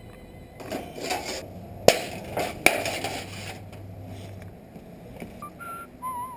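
Two sharp knocks about a second apart, with scraping and clattering around them, like hand work on metal pieces.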